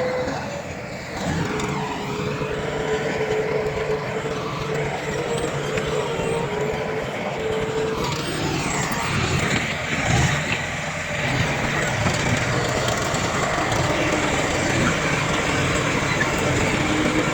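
Heavy diesel earthmoving machinery, a bulldozer and dump trucks, running steadily at work, with a held whine under the engine noise.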